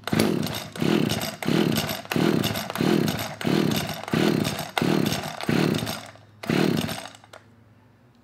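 Gardenline petrol hedge trimmer being pull-started: about ten quick pulls of the recoil starter in a row, each a rising and falling whir of the cord turning the engine over, without the engine catching. The pulls stop about seven seconds in.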